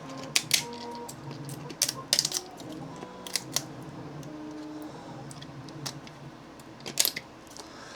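Pliers snapping and cracking 3D-printed support material off a warm silk-filament print: a run of sharp, irregular clicks in small clusters. Background music underneath.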